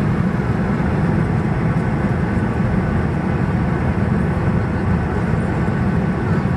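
Steady cabin noise of a Boeing 737-800 in flight: a deep, even rumble of its CFM56 turbofan engines and the airflow, with a faint steady hum on top.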